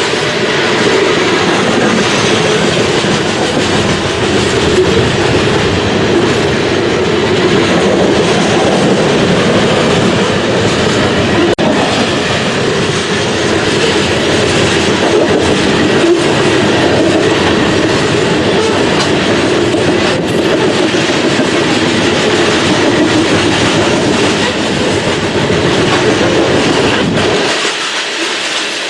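Loaded coal train's hopper cars rolling past at close range: a steady, loud rumble of steel wheels on rail with clickety-clack over the rail joints. The deepest rumble drops away near the end.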